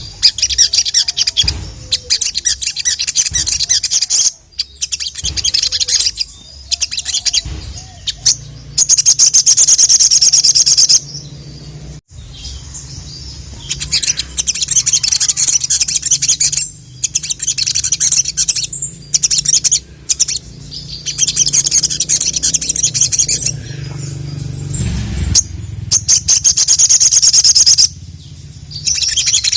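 Sogon (sogok ontong, the little spiderhunter) singing loudly: long runs of rapid, high-pitched repeated notes, each run lasting a second or few, with short breaks between them. This is the full, vigorous song that keepers play to a captive bird to bring it into song.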